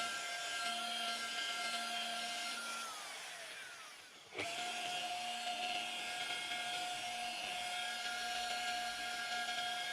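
A high-speed rotary power tool whining at a steady pitch. About three seconds in it is let off and winds down with a falling whine, then it is switched back on just past four seconds and jumps straight back to full speed.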